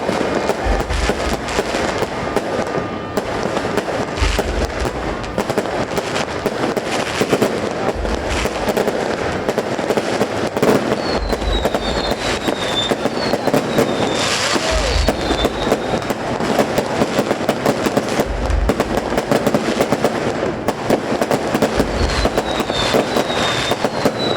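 Fireworks display: dense crackling and popping throughout, with a deep boom every few seconds.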